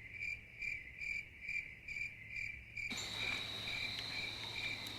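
Crickets chirping in a steady, even rhythm of about two chirps a second, with a continuous higher insect trill joining about three seconds in.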